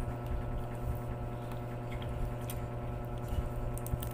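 A person chewing pork leg eaten by hand, with scattered wet mouth clicks, over a steady low electrical hum.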